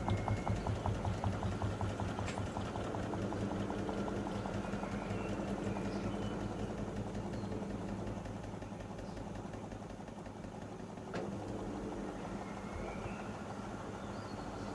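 Panasonic NA-147VB2 washing machine running, its inverter motor turning the drum with a steady hum. A fast rhythmic beat fades out over the first two seconds, and there is a sharp click about eleven seconds in.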